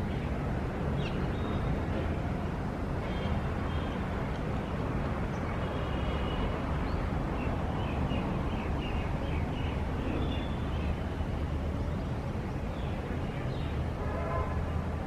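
City ambience: a steady low rumble of traffic, with birds chirping now and then over it, including a run of quick repeated chirps about halfway through.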